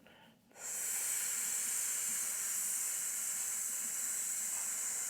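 A man breathing out a long, steady 'sss' hiss through his teeth, the lung sound of the Taoist six healing sounds. It starts about half a second in, after a short silent pause.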